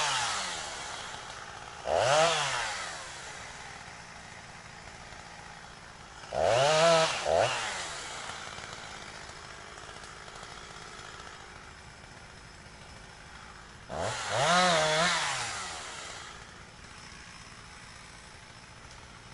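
Chainsaw engine idling, revved up briefly three times, each rev rising and then falling back in pitch, with no cutting.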